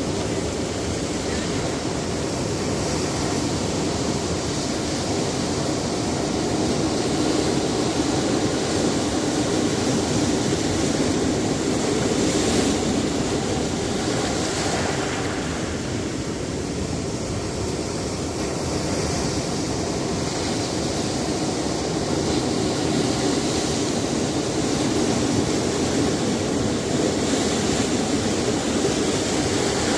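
Sea surf breaking on a rocky shore: a continuous rush of waves that swells and eases gently every few seconds.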